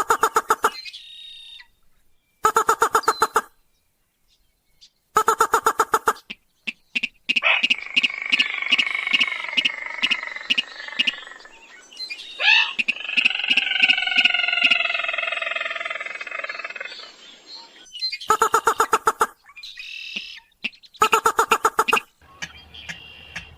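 Crake and rail lure calls: short, rapid pulsed trills of about a second, repeated every two to three seconds. In the middle comes a longer call of about ten seconds, layered tones over a fast ticking rhythm.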